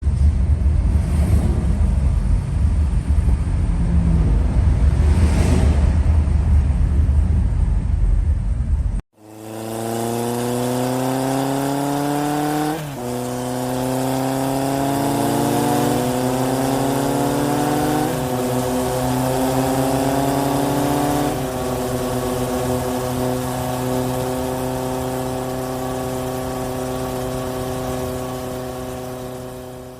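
For about nine seconds, heavy wind rumble against the microphone with engine noise beneath. After a sudden cut, a vehicle engine accelerates: its pitch climbs steadily and drops back at each gear change, three times, then settles into a steady drone.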